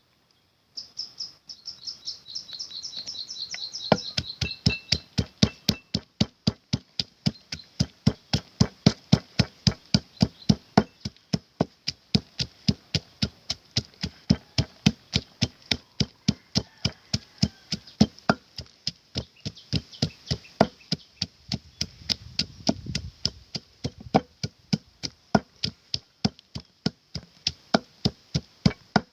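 Steady rhythmic knocking from food preparation, ingredients chopped or pounded at about three strikes a second, beginning about four seconds in. It is preceded by a few seconds of high chirping.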